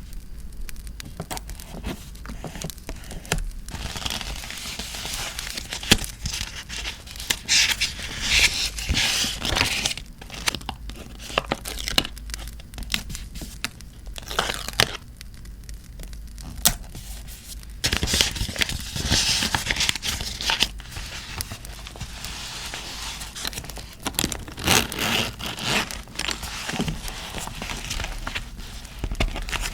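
Paper being torn and crinkled by hand in several rustling bouts, with scattered small clicks between them.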